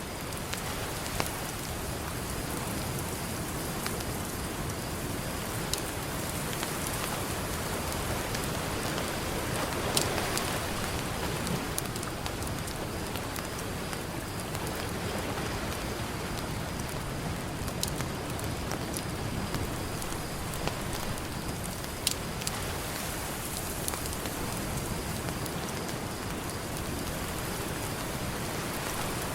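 Campfire crackling, with scattered sharp pops, over the steady wash of ocean surf. The surf swells slightly about a third of the way in.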